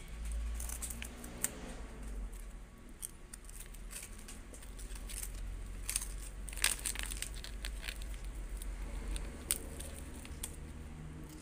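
A crunchy snack stick being bitten and chewed close to the microphone, with irregular sharp crunches and crackles a second or more apart.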